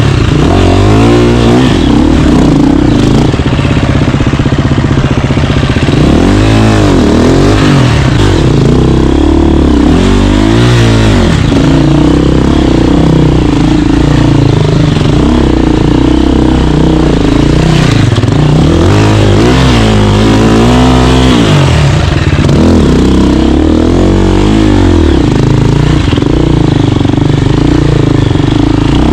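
KTM 350 dirt bike's four-stroke single-cylinder engine running hard while riding, the revs rising and falling again and again as the throttle is worked.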